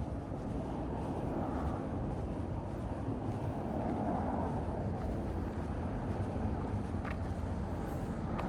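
Steady low rumble of outdoor street ambience, swelling slightly about a second in and again around four seconds in, with one brief faint high squeak about seven seconds in.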